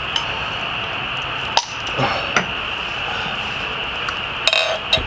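A few sharp glass clinks and taps over a steady background hiss: single clicks about a second and a half and two and a half seconds in, and a short ringing cluster near the end.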